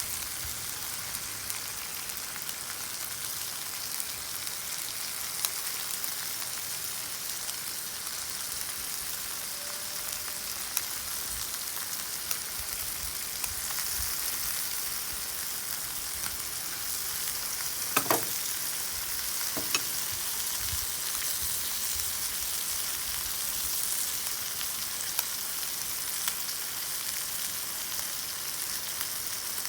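Beef sizzling steadily on a cast-iron pan, with scattered small pops and two sharper clacks about two-thirds of the way through.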